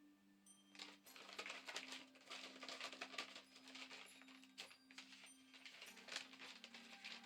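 Faint paper crinkling and rustling, many small crackles, as an envelope is opened and the wish inside unfolded, over a steady low hum.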